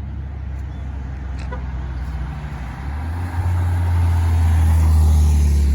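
Car engine running close by, getting louder about three seconds in as it revs up.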